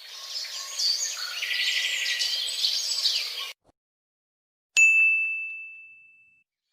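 Birds chirping and singing, cutting off abruptly about three and a half seconds in. About a second later comes a single bright ding, a clear tone that rings out and fades over a second and a half.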